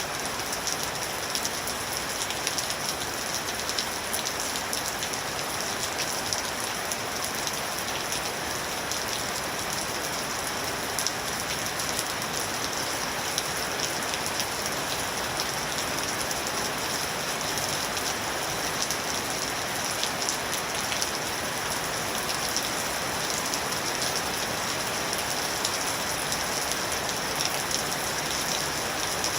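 Steady rain falling on a surface, an even hiss dotted with fine drop patter.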